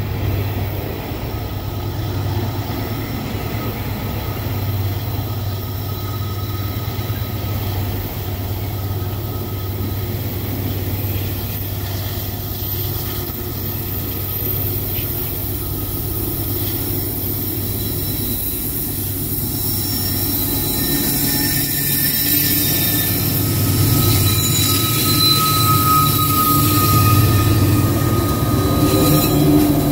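Loaded freight train's hopper cars rolling past on the rails, steel wheels squealing on the rails with thin high tones. Near the end, diesel locomotives in the middle of the train come past and the running gets louder.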